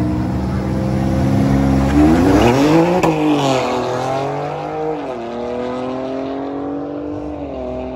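BMW X3 M engine at full throttle, accelerating hard down a drag strip from the start line. The pitch climbs and drops sharply at each upshift, about three and five seconds in and again near the end, and the sound fades as the car pulls away.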